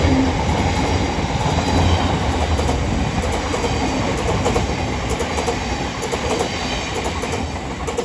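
Southeastern Class 707 electric multiple unit running past on the track: steady wheel and rail noise that slowly fades.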